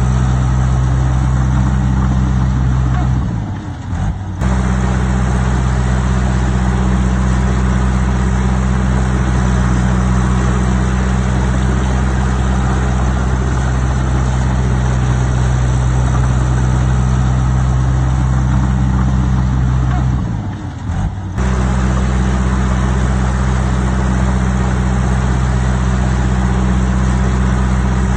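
Heavy diesel engine of earthmoving machinery running steadily under work, with a deep, even hum. The sound dips briefly twice, about three and a half seconds in and again about twenty seconds in, and each time comes back abruptly.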